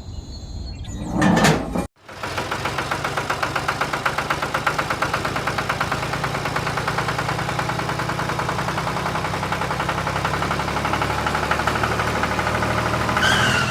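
A short swoosh about a second in, then after a sudden cut a small tractor engine running steadily with an even, regular chugging pulse.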